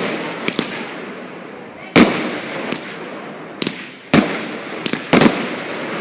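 Fireworks going off: a string of sharp bangs, each followed by a fading rumble, at irregular intervals of about half a second to a second and a half. The strongest bangs come about two seconds in and about five seconds in.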